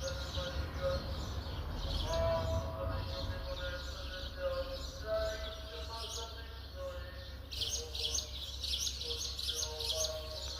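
Birds chirping, with a thick run of rapid chirps from about seven and a half seconds in, over a low steady hum and a faint steady tone.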